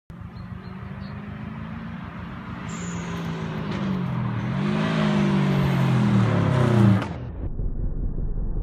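Subaru Impreza GC8 STI approaching and growing louder, its turbocharged flat-four engine rising and falling in revs. About seven seconds in the sound drops abruptly to a dull, low, slowed-down rumble as slow-motion playback begins.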